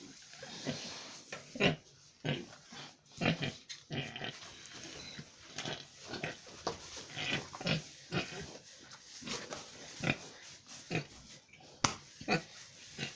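Domestic pigs grunting, a long run of short irregular grunts, with one sharp click near the end.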